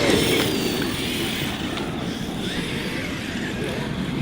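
Large electric RC monster trucks (Traxxas X-Maxx and Arrma Kraton) racing across rough ground: motor whine rising and falling over a rushing noise of tyres and dirt, growing fainter in the first second as they pull away.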